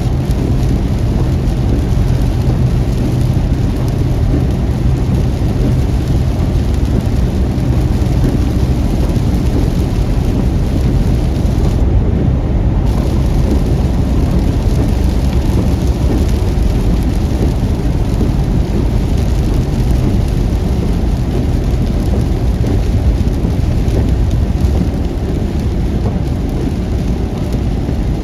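Heavy rain on a moving car: a loud, steady, dense rush with a strong low rumble underneath.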